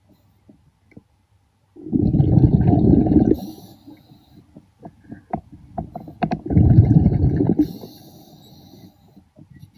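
A diver's exhaled air bubbling out of the regulator underwater, in two bursts each lasting about a second and a half and spaced about four seconds apart, with faint clicks and ticks between them.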